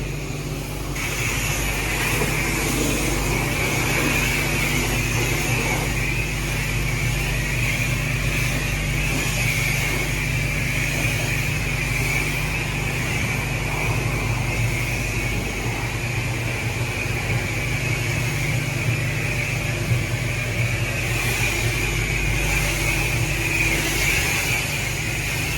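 Car wash high-pressure spray wand spraying water onto a truck: a steady hiss that starts abruptly about a second in, over a steady low hum.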